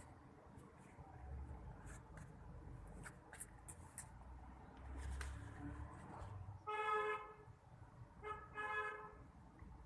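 A vehicle horn honks, a steady flat-pitched note about seven seconds in, then a short toot and a longer one near the end, over a faint low rumble and a few light clicks.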